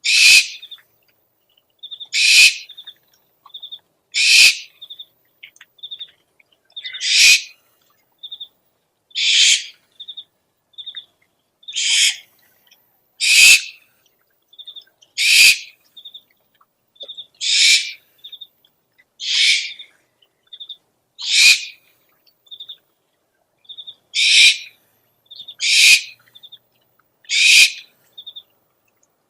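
Owl calling over and over: a harsh, raspy screech about every two seconds, fourteen in all, with short, faint, high chirping notes between them.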